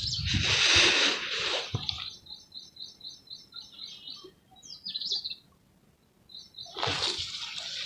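Charcoal crumbling and crackling in water, a dense crackle for the first two seconds and again near the end. In the quiet between, a bird gives a quick run of short, evenly repeated chirps, about five a second, then one short warbling call.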